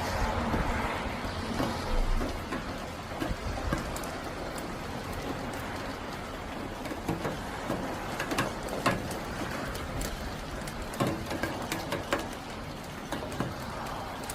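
Rain falling steadily, with many separate drops ticking sharply close by, scattered among the general patter. A rushing gust dies away in the first second or two.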